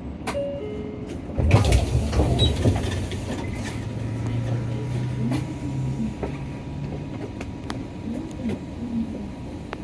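Interior sound of a Nissan Diesel PKG-RA274KAN city bus under way: its diesel engine and drivetrain drone steadily. About a second and a half in there is a loud sudden rush of noise with knocks, and from about four to seven seconds in a steady low engine note stands out.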